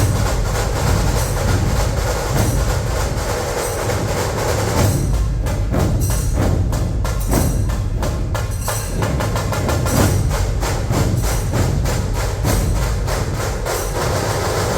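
Dhol-tasha ensemble playing loudly: deep dhol barrel drums pounding under fast, cracking tasha strokes in a driving rhythm. About five seconds in, the pattern changes to more clearly separated strokes.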